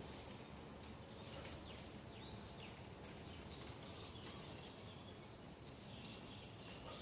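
Small birds chirping and calling: scattered short, high chirps and quick falling notes, over a faint steady outdoor hiss.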